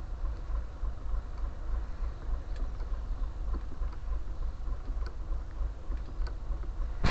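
Low, fluctuating rumble of wind buffeting the microphone, with a few faint clicks.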